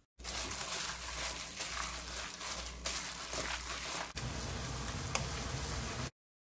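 Seasoned fish cake sizzling in a frying pan while a wooden spatula stirs it, with small scrapes and clicks. The sound changes about four seconds in and stops suddenly about two seconds later.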